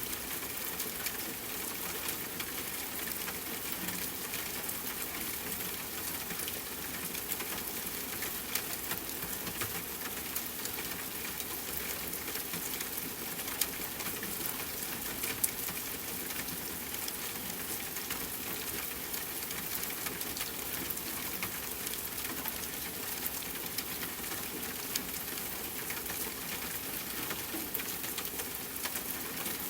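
Steady rain, an even hiss with a few sharper ticks here and there.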